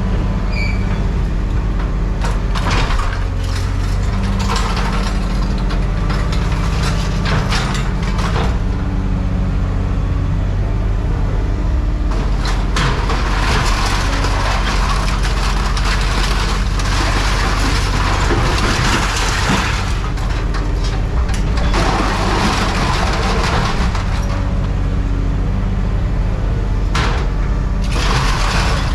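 A heavy engine running steadily, with repeated bursts of noise over it, the longest lasting several seconds in the middle.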